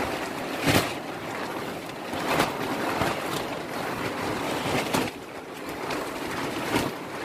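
Steady rushing noise with four brief louder swells, like wind buffeting the microphone.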